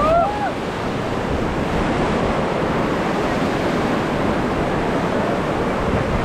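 Ganges river water rushing steadily around the raft, mixed with wind buffeting the microphone.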